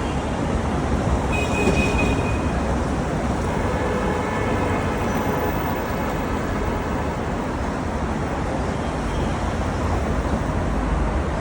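Steady urban traffic noise, a continuous low rumble of passing vehicles, with a brief high-pitched tone about a second and a half in.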